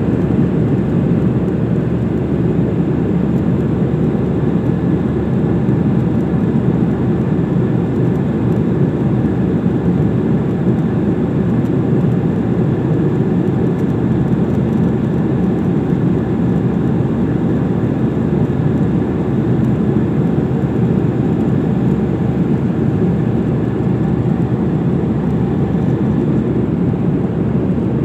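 Steady cabin noise of an airliner in flight, heard from inside the passenger cabin: a constant low rush of engine and airflow noise.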